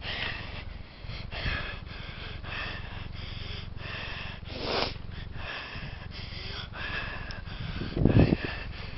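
A cyclist breathing hard close to the microphone while pedaling, in quick regular breaths, with two louder puffs about halfway and near the end.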